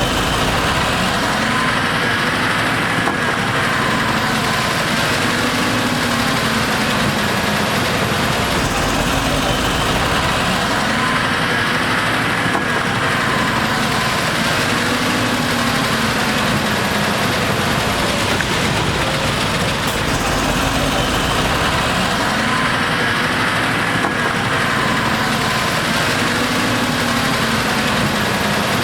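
Heavy diesel engine of earthmoving machinery running continuously under work. Its pitch swells up and eases back in a slow cycle about every ten seconds.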